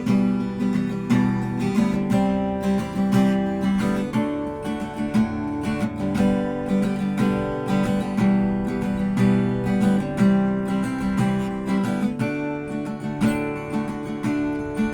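Acoustic guitar strumming chords steadily: the instrumental intro of a song.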